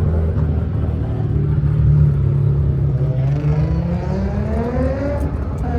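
Car engine running with a steady low drone, then revving up, its pitch rising from about three seconds in.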